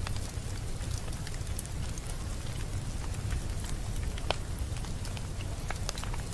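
A fire in a fireplace crackling, with irregular sharp pops over a steady low rumble; one louder pop about four seconds in.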